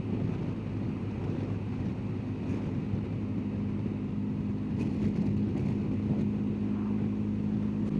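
BMW R1250GSA's boxer-twin engine running at a steady cruise, with road and wind noise around it.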